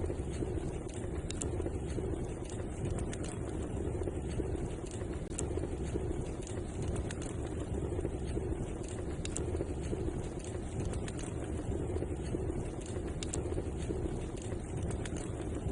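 Wood fire burning in a fireplace: a steady low rush of flames with scattered sharp crackles and pops throughout.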